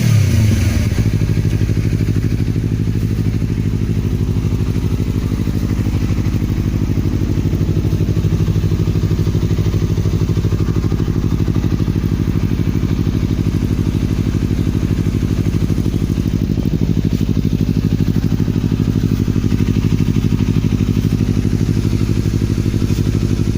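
Honda CBR250RR engine idling steadily through an aftermarket exhaust, settling from a rev at the start into an even, pulsing idle.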